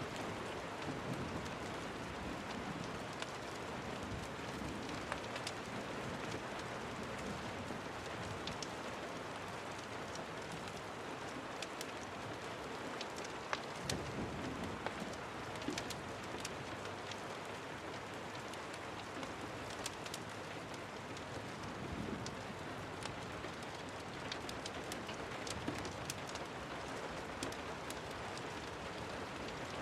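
Steady rain falling, an even hiss dotted with scattered sharp ticks and pops throughout.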